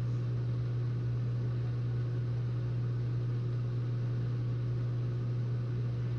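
Whirlpool dishwasher's pump motor running with a steady low hum over a hiss, at the end of the wash before the heat-dry cycle.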